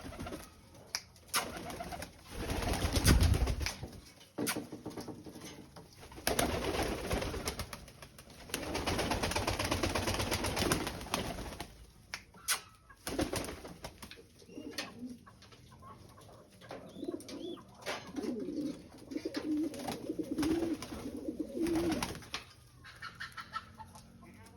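Pet bird calling with low, repeated cooing notes, among rustling and scattered clicks. A loud low bump comes about three seconds in.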